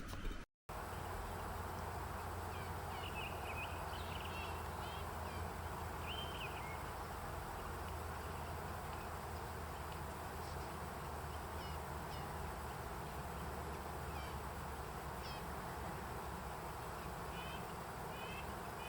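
Steady wind with small birds chirping in short bursts, several calls in quick succession early on and again near the end. The sound drops out completely for an instant about half a second in.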